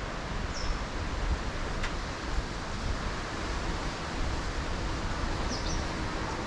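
Steady outdoor street noise heard while riding a bicycle, with light wind on the microphone. Two brief high chirps, about half a second in and near the end, and a single short click about two seconds in.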